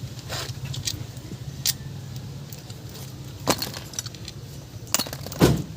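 Metal parts or tools clinking against each other about five times, separate sharp clinks over a steady low hum.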